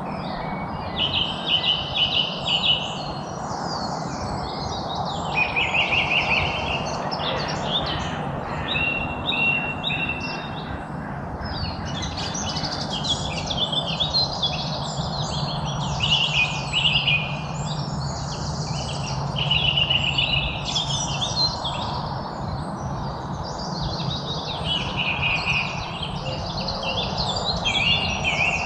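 Several songbirds chirping and singing at once, short buzzy trills and quick high chirps overlapping without a break, over a steady background hiss.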